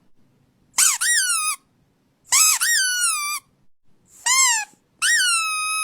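A squeaky toy squeezed four times, making high-pitched squeaks that each rise then fall in pitch. The last squeak is drawn out.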